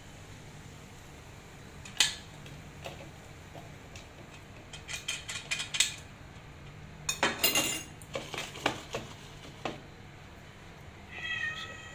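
Dishes and cutlery clinking and rattling in scattered bursts as kitchenware is handled. A cat meows briefly near the end.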